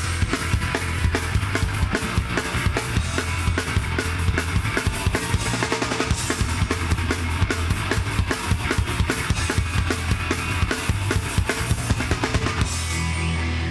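Live band playing with fast, dense drumming over a steady bass and guitar. About a second before the end the drums stop and a held guitar chord rings on.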